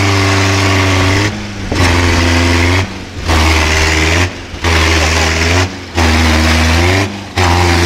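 Off-road vehicle engine running hard while a mud-covered tyre spins in mud. The sound drops away briefly about every second and a half.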